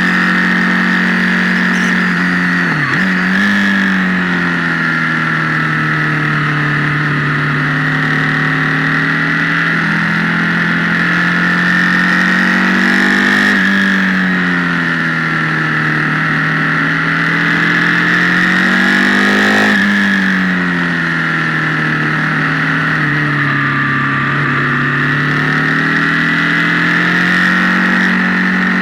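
Motorcycle engine heard from onboard, its pitch rising and falling with the throttle through a series of bends, with a sharp dip in pitch about three seconds in and quick changes near the middle. The sound is harsh and distorted through the action camera's microphone.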